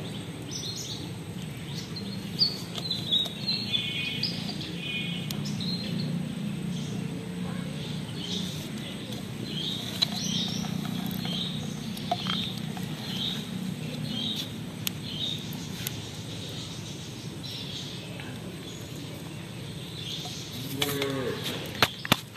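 Birds chirping, one repeating a short high call about twice a second for several seconds midway, over a low steady hum. A few light clicks near the end.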